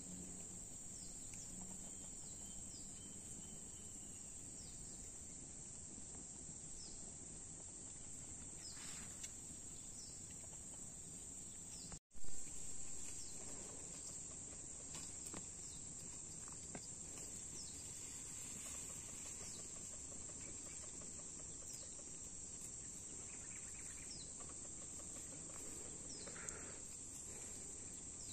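Steady high-pitched chorus of insects over rural background noise, with a few faint scattered chirps. About twelve seconds in the sound drops out for an instant, then a short knock fades away.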